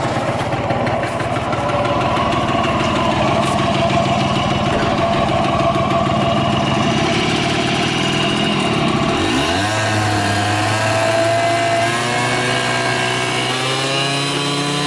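Early Honda DJ-1R (AF12) 50cc two-stroke scooter engine running just after starting, fast at first, then dropping sharply in speed about two-thirds of the way through and settling to a steadier idle, picking up slightly near the end. It runs without abnormal noise, as the seller describes it.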